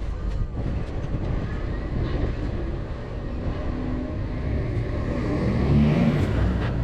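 Heavy goods vehicle driving: steady engine and road rumble that swells louder about six seconds in.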